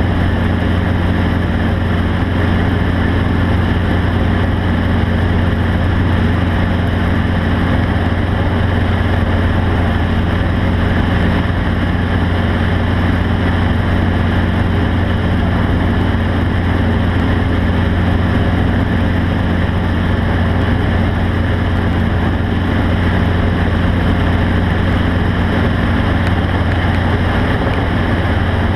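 An engine running steadily at an unchanging speed: a constant low drone with an even hiss over it.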